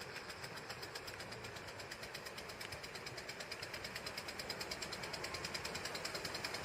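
Ford Quadricycle's two-cylinder gasoline engine running with a fast, even clatter that grows slightly louder toward the end.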